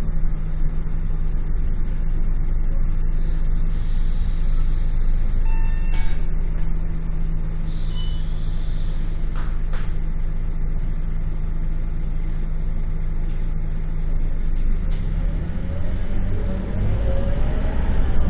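Scania K230UB bus diesel engine idling steadily, with a short beep about six seconds in and a brief burst of air hiss a couple of seconds later. Near the end the engine climbs in revs, rising in pitch and getting louder.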